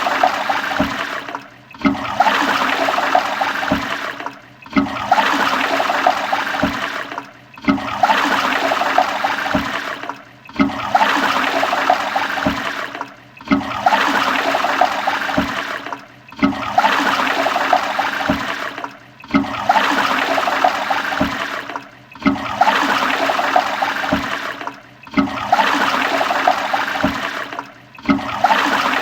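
Toilet flushing: a rush of water that starts loud and tails off. The same short flush repeats about every three seconds, with a brief break between each.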